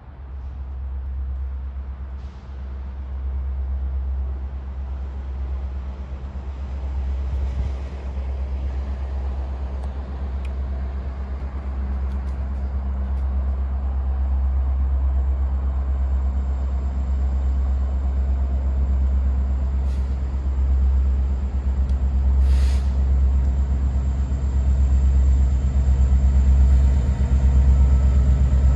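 Low, steady rumble of an approaching Union Pacific freight train's diesel locomotives, slowly growing louder.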